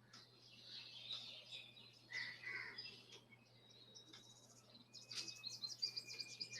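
Faint birds chirping, with a quick run of high twittering notes over the last second or so, above a low steady hum.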